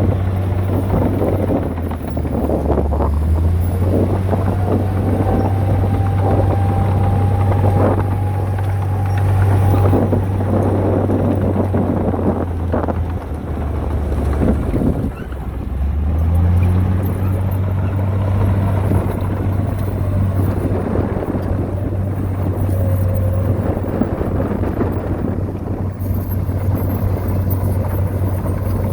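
Heavy diesel engine of earthmoving machinery running hard, its note dipping near 2 seconds and again around 15 seconds before picking back up. Repeated clanks and knocks sound through the first half, with a faint high whine for a few seconds.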